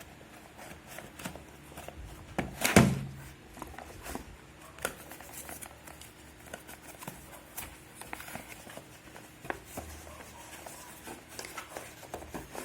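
Handling noise: scattered light clicks and knocks as things are moved about by hand, with one louder thump about three seconds in.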